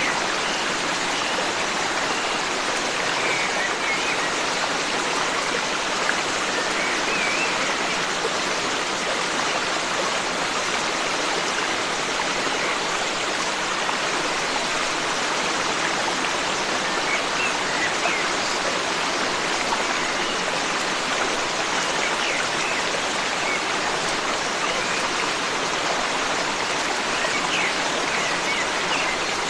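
Forest stream rushing steadily over rocks, with a few faint bird chirps here and there.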